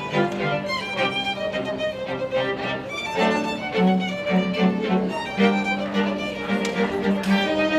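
Orchestral music led by a violin playing quick, lively notes over sustained lower strings.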